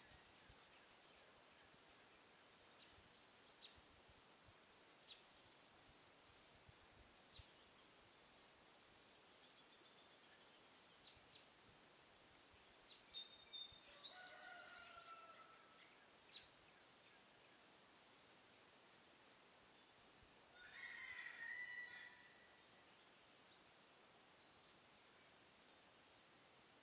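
Faint outdoor quiet with scattered bird calls. A quick run of calls and a short two-note call about halfway through, and another burst of calling about three-quarters of the way through.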